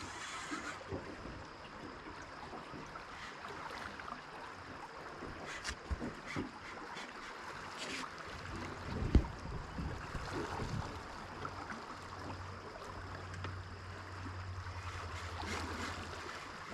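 Water rushing and wind noise around a small fishing boat, with a steady low motor hum coming in over the last few seconds and a single sharp knock about nine seconds in.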